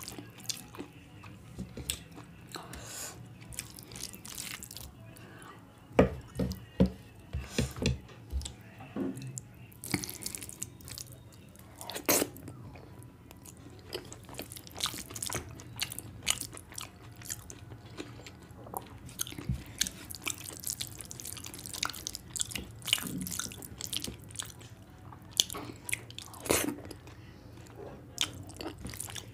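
Close-up eating sounds: chewing and wet mouth clicks and smacks from a mouthful of rice and curry, with the squish of fingers mixing rice into the curry. A run of louder smacks comes about six to eight seconds in.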